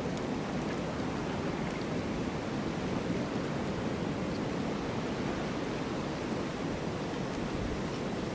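Snowstorm wind blowing in a steady, dense rush with no single gust standing out.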